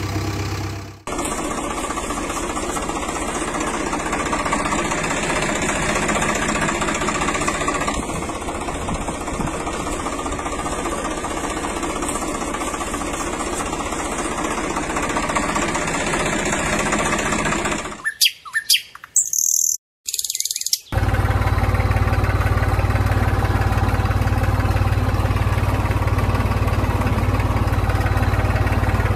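Birds chirping over an even background noise for most of the stretch; after a brief break about two-thirds of the way in, a steady low engine hum takes over, an engine idling.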